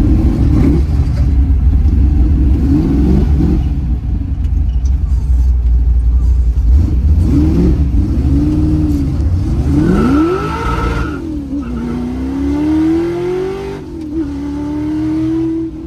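347 cubic-inch stroker Ford small-block V8 with a solid-lifter race cam, driven hard: the engine note rises and falls again and again as it is revved through the gears over a heavy exhaust rumble, then climbs steadily in pitch in one long pull near the end.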